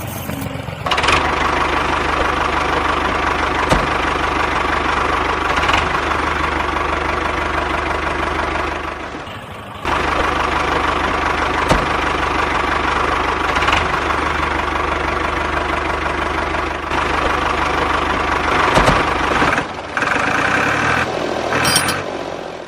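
A small motor running steadily, with a faint click about every two seconds. It drops away briefly about nine seconds in, then resumes.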